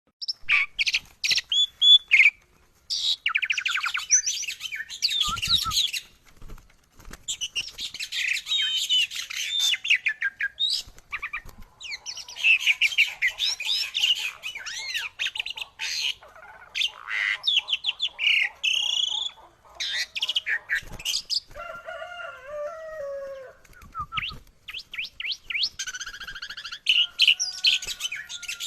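Songbirds chirping and singing in quick, high twitters and trills, in bursts with short pauses. About three quarters of the way through, a lower, slower bird call is heard for a few seconds.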